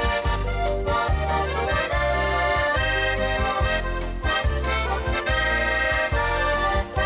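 Accordion playing an instrumental interlude of a folk song: a sustained melody over a steady bass-and-chord accompaniment pulsing about twice a second.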